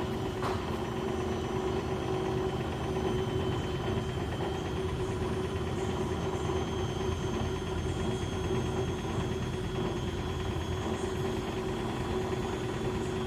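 Beko WS832425S washing machine on its intermediate spin, the drum turning at speed with a steady motor hum and rumble now that the load has balanced.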